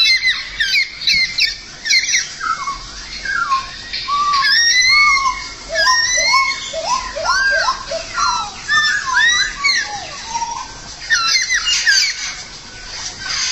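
Songbird singing a long, varied run of quick whistled phrases, rising and falling in pitch, with hardly a pause.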